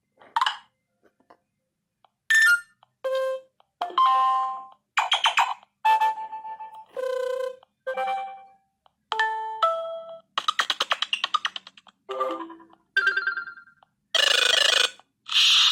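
LineageOS notification sounds on a Samsung Galaxy S6 played one after another: a string of short chimes, beeps and jingles, each different, about one a second with brief gaps between them.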